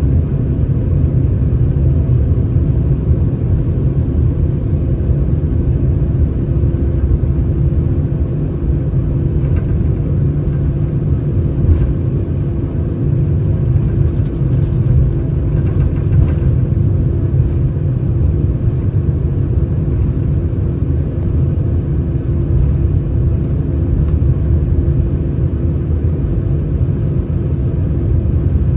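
Steady cabin rumble and engine noise inside an Airbus A319 with CFM56 engines, with a faint constant hum over the low roar.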